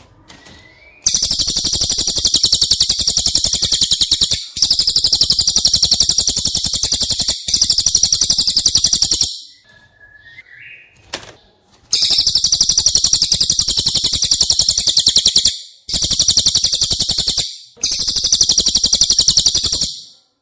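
Cililin bird singing: very fast, high, buzzy trills in six bouts of two to four seconds each, with a pause of about two seconds midway. A short rising whistle comes before the first and the fourth bouts.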